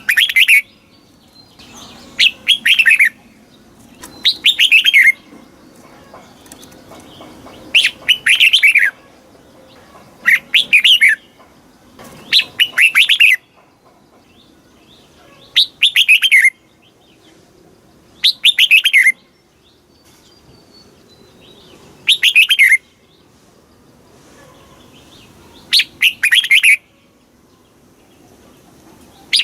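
Red-whiskered bulbul singing: short, loud whistled song phrases of quick falling notes, about a second each, repeated roughly every two to four seconds, about ten times.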